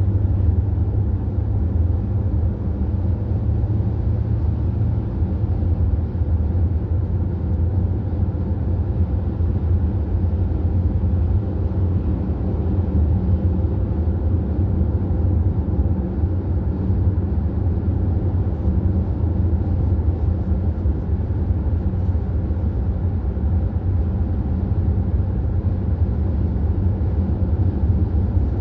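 Steady road and engine drone of a vehicle cruising on the highway: a constant low rumble with a faint steady hum above it.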